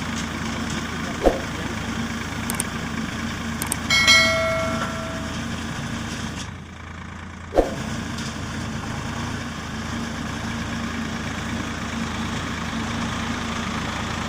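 Solis tractor's diesel engine idling steadily, with two sharp knocks and, about four seconds in, a brief pitched tone lasting just over a second.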